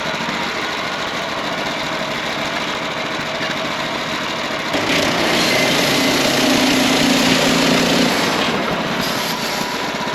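Wood-Mizer portable sawmill's engine running steadily. About halfway through, a louder, hissing stretch with a low hum comes in for a few seconds, then drops back to the steady running.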